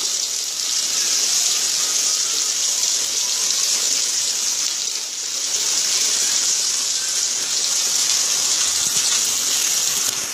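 Summer rain falling steadily: a dense, even hiss with no breaks.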